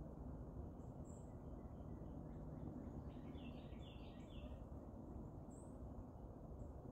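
Faint outdoor background hiss with a few faint, high bird chirps scattered through it. A short run of chirps comes about three seconds in.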